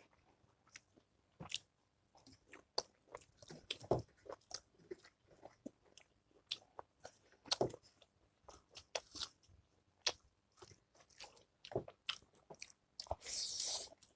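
Close-miked eating sounds: scattered crunching bites and chewing of pork pickle and rice. Near the end there is a short hiss of about a second.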